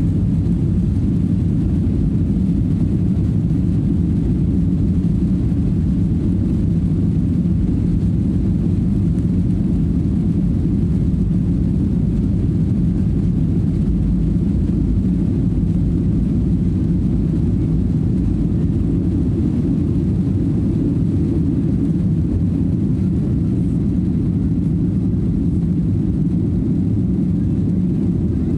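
Steady low rumble of a Boeing 737-900ER's engines and airflow heard inside the passenger cabin, with no change in pitch or level.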